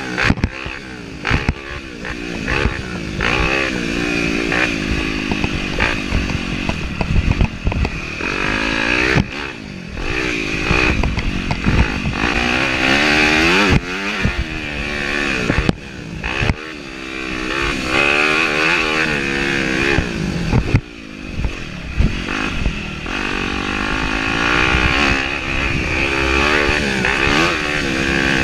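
Yamaha YZ250F four-stroke single-cylinder dirt bike engine revving hard and backing off again and again, the pitch climbing and then dropping at each shift or throttle release. Short knocks and clatter come from the bike over rough trail.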